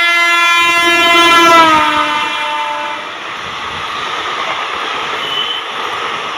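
Indian Railways electric train's horn held in one long blast, its pitch dropping about two seconds in as the train passes, then the steady noise of the train running by.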